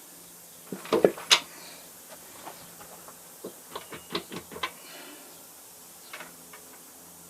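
Metal clanks and knocks from steel machine parts and hand tools being handled during disassembly of an old shaper: a few loud knocks about a second in, then a run of lighter clicks and taps.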